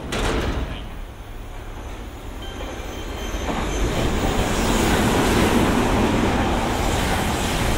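A Sanyo Electric Railway electric train passing through the station without stopping. Its running noise builds from about three seconds in and stays loud as it goes by.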